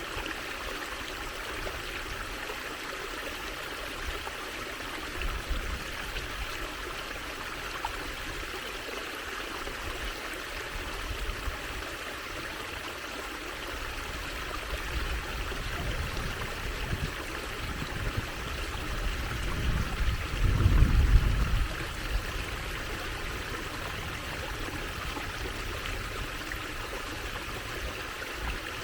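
Water trickling and running steadily over stones in a small stream. About two-thirds of the way through, a deeper rumble swells for a couple of seconds and fades.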